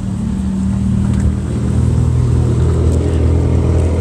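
Car engine running with a low, steady rumble, growing louder about a second in.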